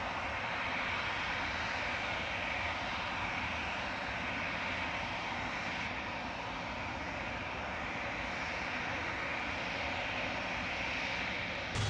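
Aircraft engines running steadily, a continuous rushing noise with a faint high whine over it.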